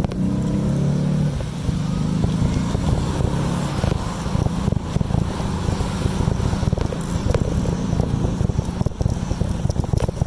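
Wind buffeting the microphone and road rumble from a moving bicycle: a dense, low rumble throughout with scattered light clicks. A low humming tone fades out in the first second and a half.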